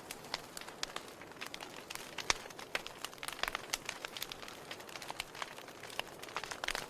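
Wood fire burning in a fireplace: irregular crackles and pops over a soft hiss of flame, with one sharper pop about two seconds in.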